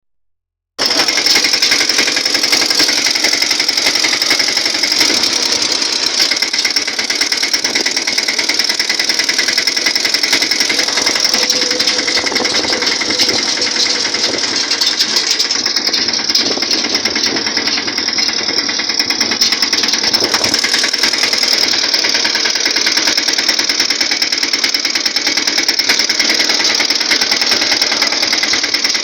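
Tractor's diesel engine running steadily with a fast, even clatter; it starts abruptly just under a second in.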